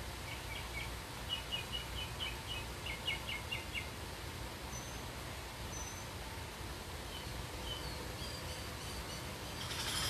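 A bird chirping a quick run of short, repeated notes for the first few seconds, with a couple of faint higher calls later, over a steady low outdoor rumble.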